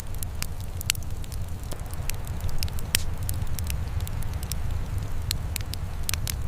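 Wood fire crackling and popping, with sharp irregular snaps over a steady low rumble of the flames.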